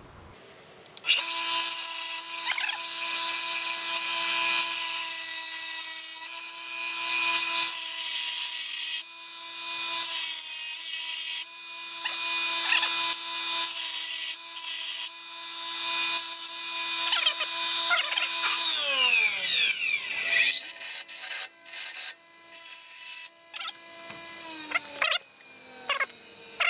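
Electric grinder starts about a second in and runs with a steady motor whine, grinding away at a door hinge part with a rising and falling rasp as the part is pressed to it. Its pitch falls as it spins down about two-thirds of the way through, with a few shorter bursts after.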